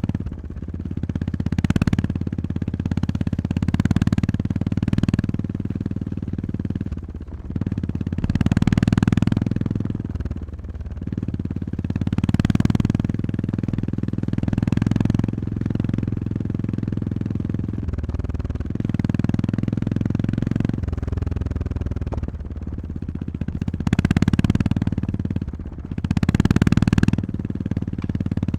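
Honda GB350S motorcycle's air-cooled single-cylinder engine running while being ridden, its revs repeatedly rising and falling as the throttle is opened and closed, with short bursts of higher rushing noise.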